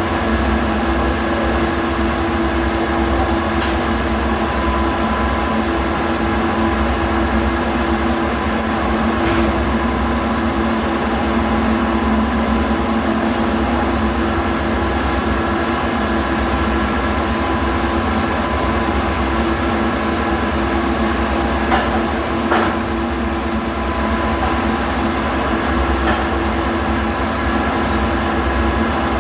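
Steady machinery hum with a constant low drone and a continuous noisy hiss, and a couple of sharp knocks about 22 seconds in.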